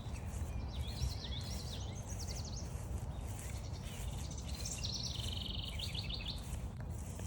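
A songbird singing two phrases of quick repeated high notes, one about a second in and one around five seconds in, over a steady low rumble.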